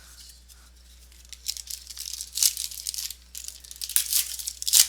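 Baseball cards and their packaging being handled: a run of quick, high crinkling and scraping rustles that starts about a second in, with louder bursts near the middle and end.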